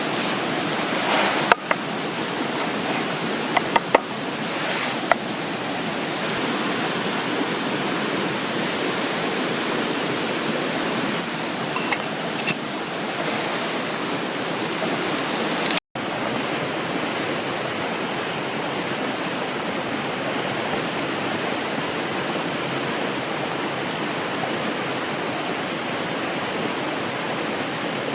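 River water running steadily, with a few light clicks and knocks in the first half. The sound drops out for a moment about halfway through and then the running water carries on.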